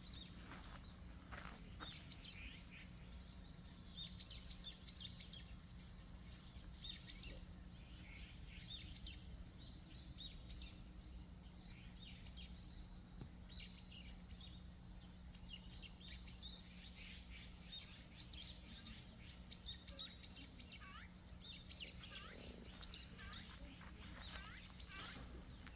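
Small birds chirping: many short, high, downward-sweeping calls come in quick clusters throughout, over a faint steady low hum.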